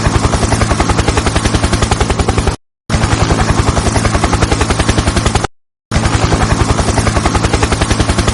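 Helicopter rotor chop, a fast steady beating of about ten beats a second over a low hum. It cuts off abruptly into dead silence twice and starts again just as abruptly.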